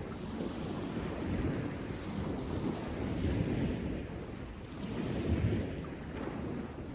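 Wind buffeting the microphone, a low rumble that rises and falls in gusts.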